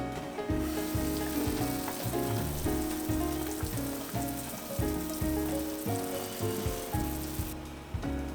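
Food sizzling in a frying pan, starting about half a second in and cutting off suddenly near the end, under background music.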